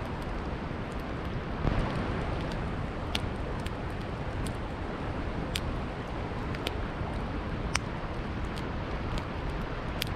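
Wood campfire crackling: sharp single pops and snaps, about one a second, over a steady rushing noise.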